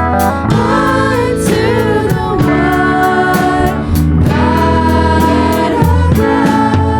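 Worship music: voices singing long, held notes over an instrumental accompaniment with a steady bass.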